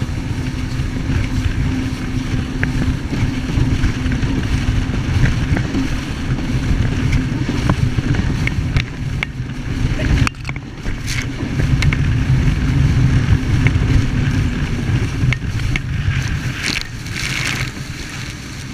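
Jet ski engine running in a steady drone, with noisy rushing sound over it. The sound briefly drops out about ten seconds in, then picks up again.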